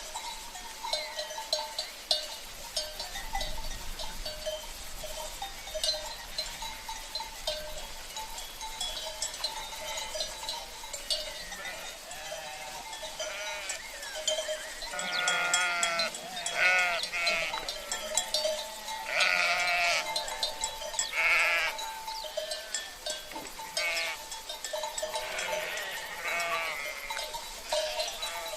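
A flock of sheep bleating, with several overlapping bleats about halfway through, over the steady clanking and ringing of cencerros, the livestock bells worn by the grazing animals.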